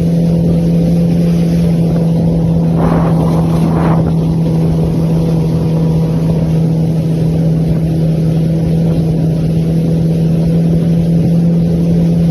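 Jet ski engine running steadily at speed, a constant, even drone, with a short rush of noise about three seconds in.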